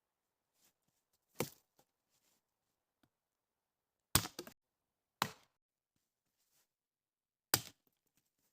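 Wood being chopped for a campfire: four separate blows, the two middle ones about a second apart, with silence between the strikes.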